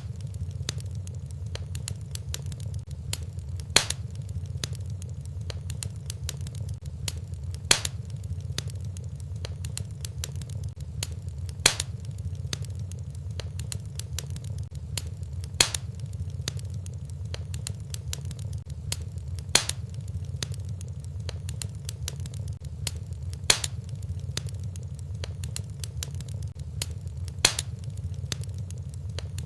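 Wood fire crackling in a fireplace over a steady low rumble, with a louder sharp pop about every four seconds at even spacing.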